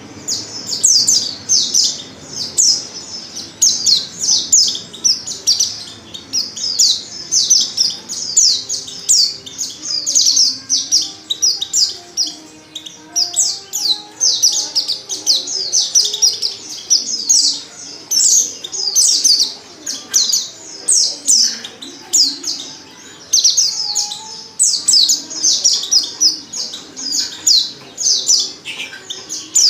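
Female white-eye (pleci) calling without pause in rapid strings of high, quick chirps. This is the call of a female in breeding condition, used to excite male white-eyes into singing.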